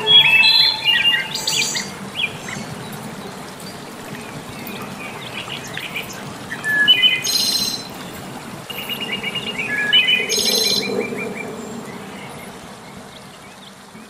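Small birds chirping and trilling in short bursts, near the start, around seven seconds in and again around ten seconds, over a steady wash of flowing water. The sound fades out near the end.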